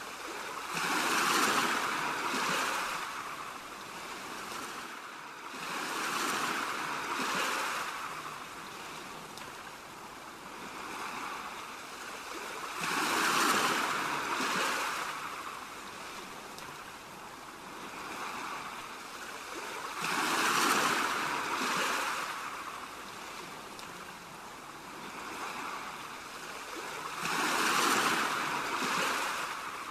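Ocean waves washing ashore, each swell rising and falling back about every six or seven seconds, some larger than others.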